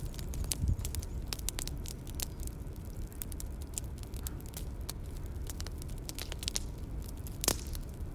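Bonfire crackling: irregular sharp snaps and pops over a low steady rumble, with one louder pop near the end.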